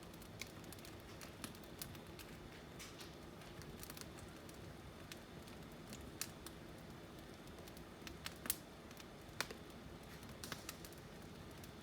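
Wood fire burning in a fireplace, crackling with scattered sharp pops, the loudest about two thirds of the way through, over a faint steady background.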